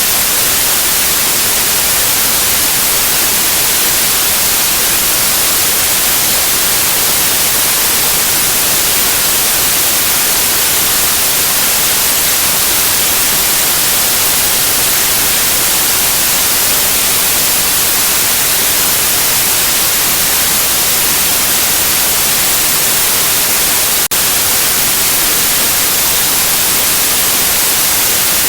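Steady white noise, an even hiss weighted toward the high end, played continuously as a sleep aid for babies. One tiny click late on.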